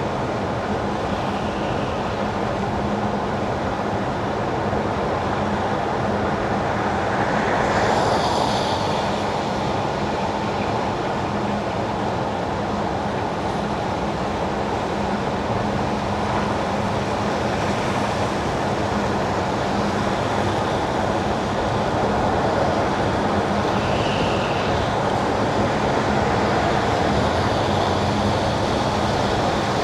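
Car tyres running on wet winter asphalt: a steady road hiss with a low hum under it, swelling louder with extra high hiss about eight seconds in.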